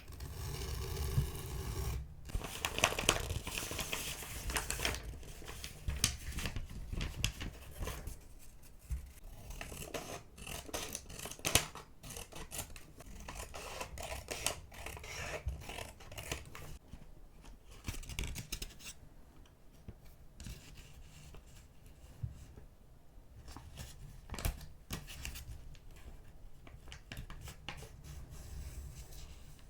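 Scissors cutting paper: a long run of short snips, with paper rustling and being handled in between.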